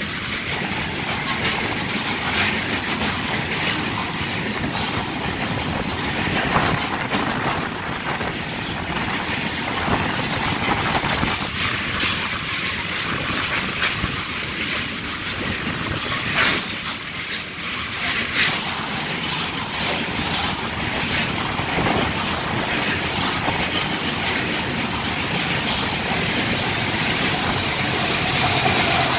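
Fully loaded coal freight wagons rolling past at speed: a continuous rumble and rattle of steel wheels on rail, dotted with clickety-clack knocks as the wheels cross rail joints. A thin high wheel squeal comes in near the end.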